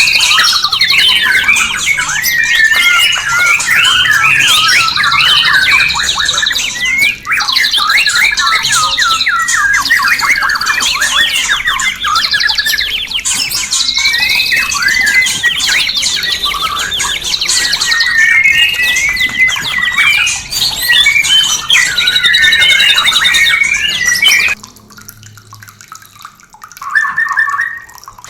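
White-rumped shama (murai batu) singing a loud, fast, varied song of whistles, rapid trills and chattering calls, the breeding-season calls used to lure caged shamas into mating condition. The song breaks off near the end, leaving one short call phrase.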